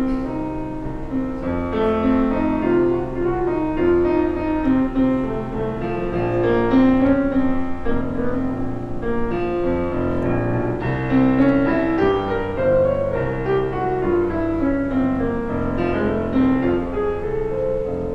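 Piano playing a melodic instrumental passage, with no singing.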